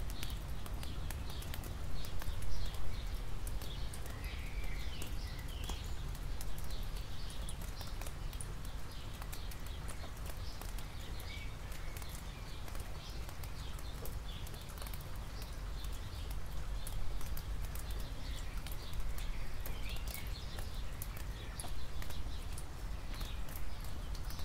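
Rain on wet asphalt: many drops ticking and dripping close by over a steady low rumble, with birds chirping now and then.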